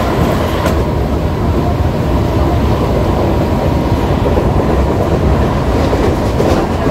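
ICF-design EMU local train running on the track, heard from inside the coach by an open window: a steady rumble and rattle of wheels on the rails, with a faint clack about half a second in.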